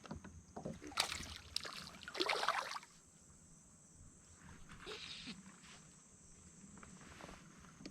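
Water sloshing and splashing around a small jon boat, with a few knocks about a second in and a louder rush of splashing around two seconds in.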